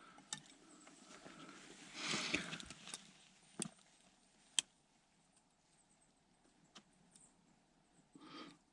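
Soft rustling with a few sharp, separate snaps or clicks: one louder rustle about two seconds in, then single cracks spread out, and another brief rustle near the end.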